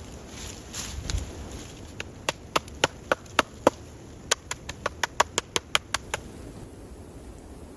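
Axe chopping wood: a quick, uneven run of sharp knocks, several a second, that stops about six seconds in.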